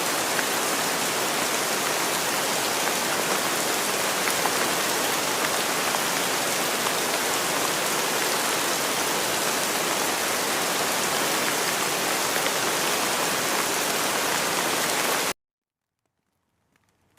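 Steady rain: a dense, even hiss with scattered tiny drop ticks. It cuts off suddenly near the end, leaving near silence.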